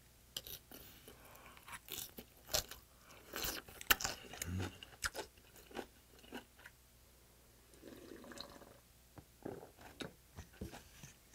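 Close-up mouth sounds of chewing green onion kimchi: wet crunches and clicks in quick irregular succession. Partway through come softer sips of broth from a large stainless steel bowl.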